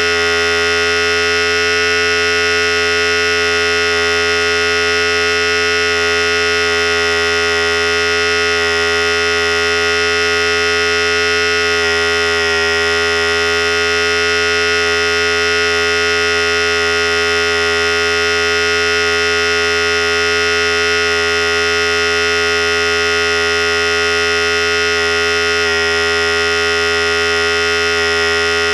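Philips Series 5000 electric hair clipper running continuously with a steady, even buzz.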